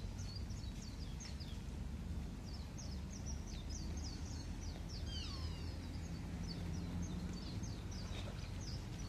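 Birds chirping in many quick short calls, most sliding down in pitch, over a low steady outdoor background rumble.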